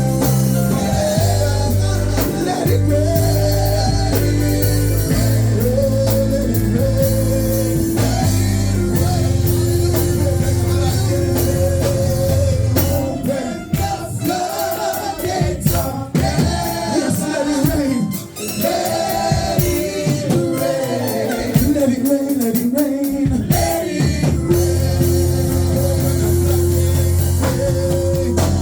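Gospel worship music: singing over a band with sustained low bass notes and drums. The low bass drops out for about ten seconds midway and comes back near the end.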